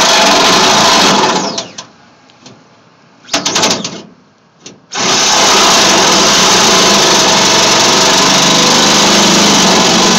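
Power drill running under load, boring a hole through metal. It runs until about a second in, stops, gives a short burst a little after three seconds, then runs steadily again from about five seconds on.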